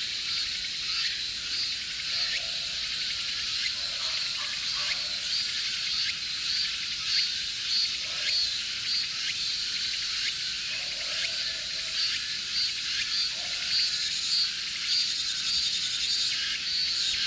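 Steady high-pitched insect chorus with a pulsing note repeating about once a second, and short lower calls every few seconds.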